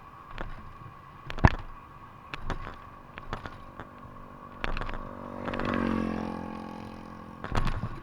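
A motorcycle engine passes, swelling and then falling in pitch as it goes by, amid scattered sharp knocks and clicks.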